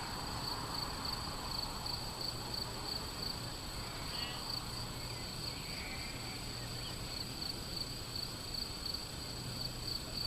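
Crickets chirping in a steady, fast-pulsing high trill, with a few short bird calls about halfway through.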